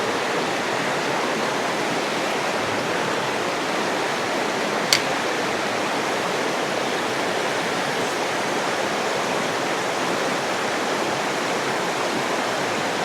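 Steady rush of water flowing over rocks in a creek, with one short sharp click about five seconds in.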